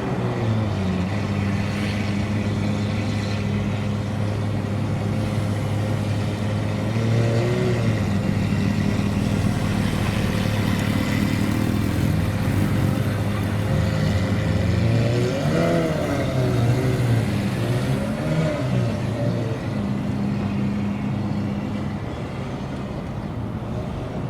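Supercar engines idling with a steady low note, blipped in short revs a few times, most clearly about two thirds of the way in.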